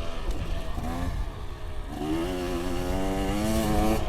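Two-stroke TM 250 dirt bike engine, first coming off the throttle with its pitch falling and dropping to a low note for about a second. It then revs up again with a steadily rising pitch under throttle and drops off suddenly near the end.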